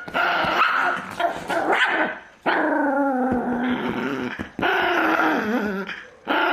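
Small dog growling and grumbling in three long drawn-out stretches, the pitch wavering up and down: a possessive growl from a dog refusing to give up something it holds.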